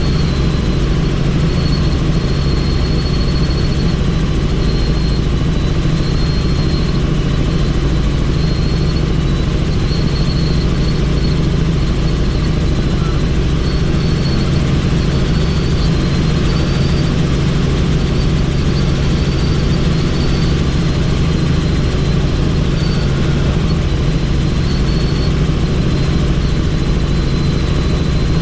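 Helicopter in flight, heard from on board: steady, loud rotor and engine noise, with a thin high whine that comes and goes.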